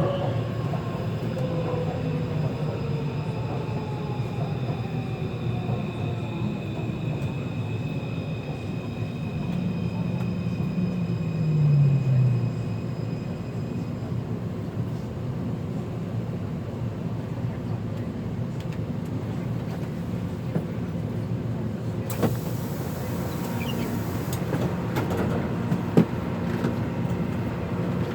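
Taipei Metro C341 electric train heard from inside the car, slowing down: its traction motor whine falls in pitch over the first twelve seconds under steady running noise. About 22 s in there is a brief high hiss lasting about two seconds, and a single sharp click comes near the end.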